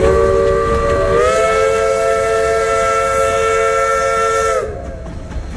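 1920 Baldwin steam locomotive's whistle blowing one long blast of several notes at once, stepping slightly up in pitch about a second in and cutting off sharply near the end, with a hiss of steam.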